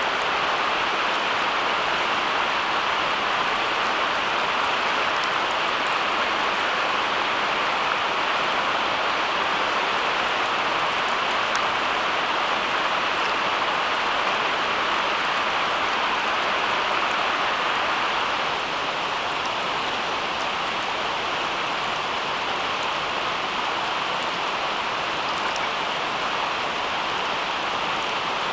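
Steady rain, an even hiss of falling water with no other events, stepping down slightly in level about two-thirds of the way through.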